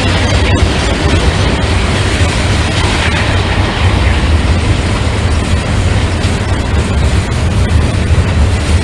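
Train passing close by: a loud, steady, deep rumble with no let-up.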